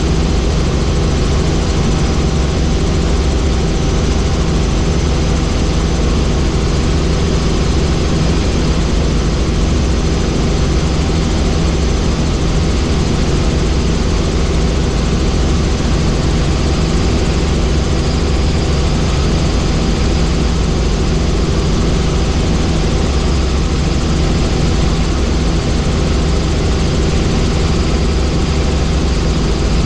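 Helicopter in flight, heard from on board: the turbine and rotor make a loud, unchanging drone with a steady low beat.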